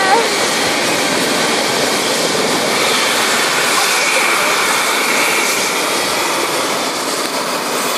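Helicopter running close by: a loud, steady rushing noise.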